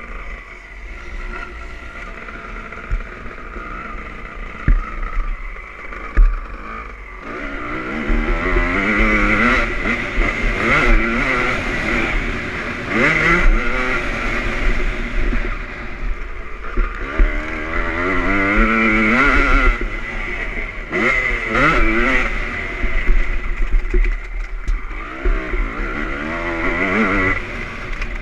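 Honda CR250 two-stroke motocross bike engine, quieter for the first several seconds, then revving hard again and again, its pitch rising and falling with the throttle.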